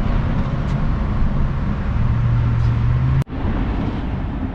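Steady rumble of freeway traffic, with a deeper engine hum swelling for about a second near the middle. The sound cuts out abruptly for an instant a little past three seconds in.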